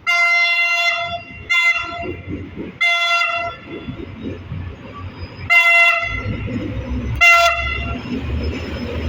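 Henschel diesel locomotive's horn sounding five blasts, the first about a second long and the others shorter. Under the later blasts the locomotive's low engine rumble swells as it pulls into the station.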